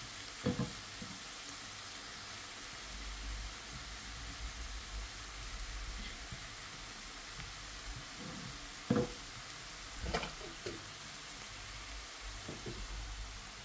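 Grated radish and flaked rui fish frying in a non-stick pan: a steady, faint sizzle, with a spatula scraping and tapping against the pan a few times, most sharply about nine seconds in.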